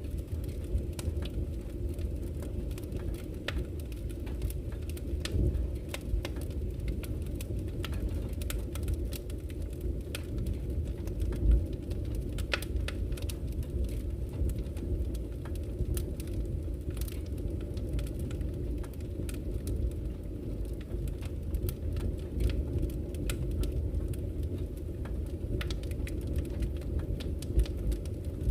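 Wood campfire crackling, with frequent sharp pops and snaps of burning wood, one louder pop about halfway through, over a steady low rush of flowing river water.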